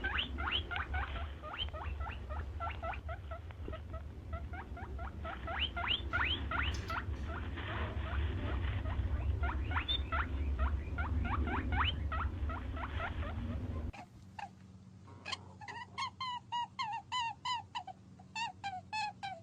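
Animal calls: a dense run of rapid, high, falling squeaks over a low rumble, then an abrupt cut about 14 seconds in to a different animal's short calls, repeated several times a second.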